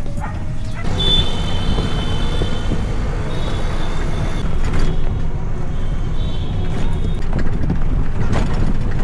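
Motor vehicle running with a steady low rumble, with thin high squeals that come and go a few times.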